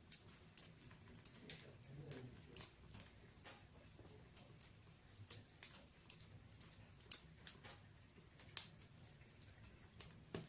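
Wood fire in a fireplace crackling softly: faint, irregular snaps and pops, a few sharper than the rest.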